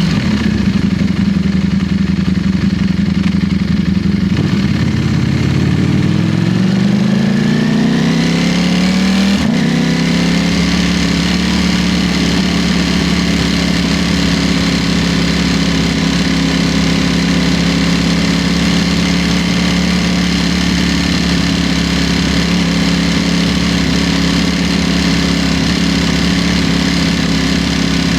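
Ducati Streetfighter V4's V4 engine under way. The revs fall for about five seconds, climb again, drop sharply at a gear change about nine and a half seconds in, then hold steady while cruising, with wind noise throughout.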